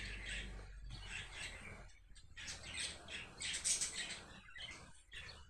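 Cockatoos squawking harshly in a few bursts. They are alarmed, not happy at something they heard.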